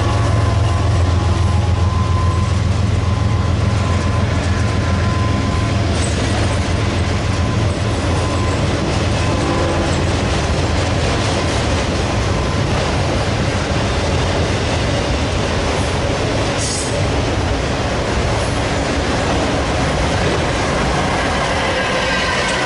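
Freight train passing close by: a heavy, low locomotive rumble through the first half, then the steady rolling noise of the cars on the rails, with a brief high squeal about 17 seconds in.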